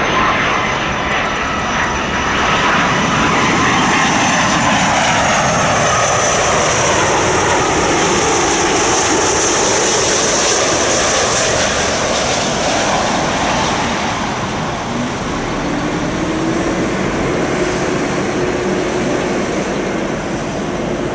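Heavy jet airliner passing close on its landing approach, engines loud and steady. The engine whine falls in pitch as it goes by, then settles into a lower steady drone.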